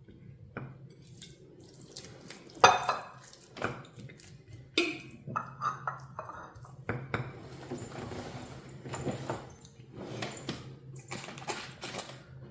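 Dishes and metal cutlery clattering and clinking as they are handled, the loudest knock about three seconds in, with water running from a tap for a stretch in the middle. A steady low hum runs underneath.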